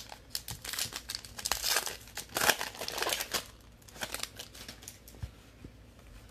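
A trading-card pack's plastic wrapper crinkling and tearing as it is opened, a run of rustles loudest in the middle that dies away a little past halfway, leaving a few light handling clicks.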